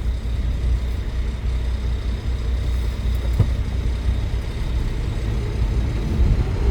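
Truck engine running at low speed, heard from inside the cab as a steady low rumble while it creeps through a parking lot, with one faint click about halfway through.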